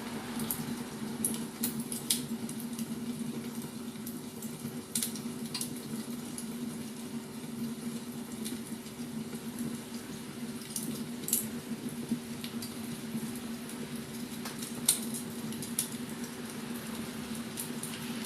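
Wood fire crackling, with irregular sharp pops and snaps, the loudest about fifteen seconds in, over a steady low hum.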